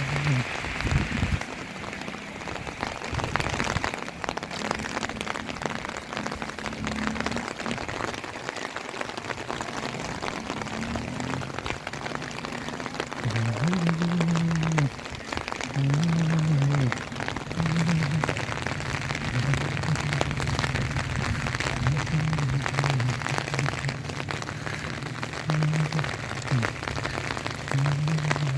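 Heavy rain falling steadily, dense drops pattering on surfaces. A low pitched hum comes and goes underneath.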